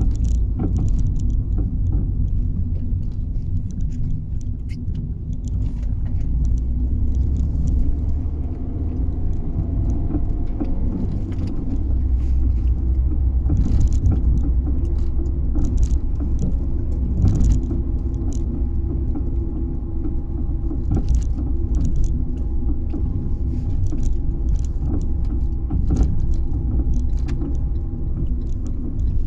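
Fiat 500 driving, with steady road and running rumble and irregular sharp clunks and knocks from under the car. The clunking is an unidentified fault that turns up on smooth roads, bumps and humps alike.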